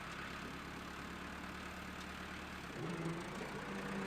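An engine running steadily at idle; about three seconds in, a steady drone comes in and the sound gets a little louder.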